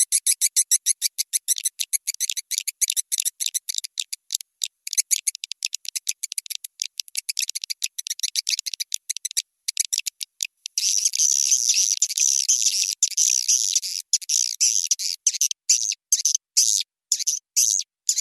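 Swiftlet lure call recording: a rapid train of sharp, high-pitched swiftlet chirps, thin with nothing low. About two-thirds of the way through it turns into a denser, almost unbroken twittering for a couple of seconds, then goes back to separate chirps.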